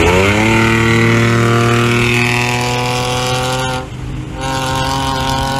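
Car engine running hard at high, steady revs. Its note settles slightly lower at the start, dips briefly about four seconds in, then comes back.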